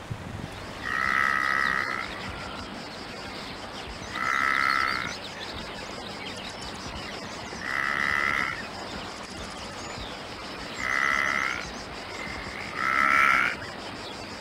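Antelope calling: five calls of about a second each, about three seconds apart, over a steady background hiss.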